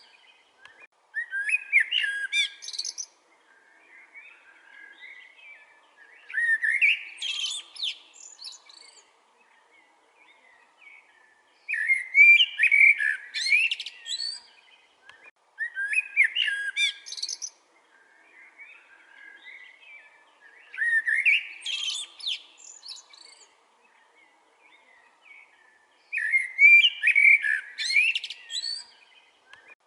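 Common blackbird singing: a string of song phrases about two seconds long, one every four to five seconds, each ending in high squeaky twittering.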